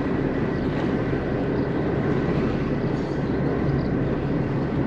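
Motor yacht's inboard engines running steadily at low speed, a constant rumble with no breaks.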